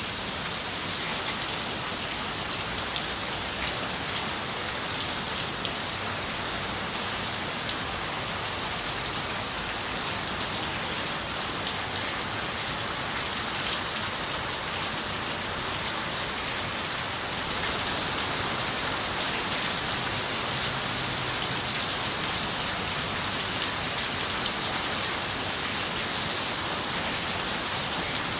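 Steady rain falling on a window, an even hiss with scattered sharp drop ticks, getting a little louder about two-thirds of the way in.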